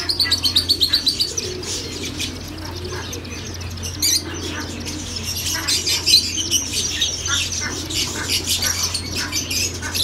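Birds chirping: a rapid run of high chirps in the first second or so, then scattered chirps, over a low steady hum.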